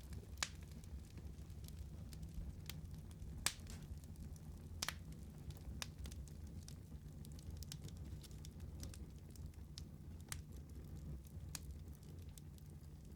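Wood fire burning in a fireplace: irregular sharp crackles and pops, a few louder snaps among them, over a soft steady low rumble.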